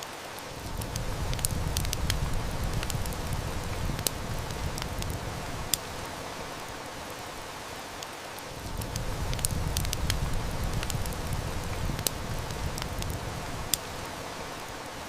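Heavy rain hissing steadily while a wood fire crackles with scattered sharp snaps. A low rumble swells up and fades twice, about five seconds each time.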